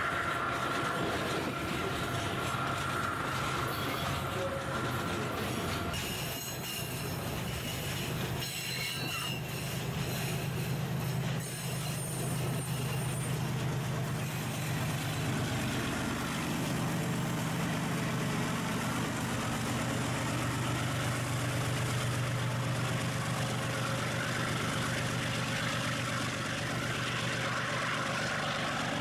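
Diesel freight train running: a steady low locomotive engine drone under broad rolling wheel noise, with thin high wheel squeals that come and go in the first half.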